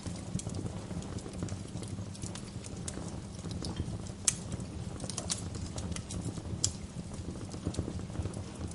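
Wood fire crackling: a steady low rumble of burning with irregular sharp pops and snaps, the loudest about four seconds in and again past six seconds.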